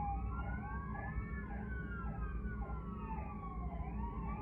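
Emergency vehicle sirens sounding together, one in a slow rising and falling wail and another in a fast, rapidly repeating yelp, over the low rumble of idling traffic.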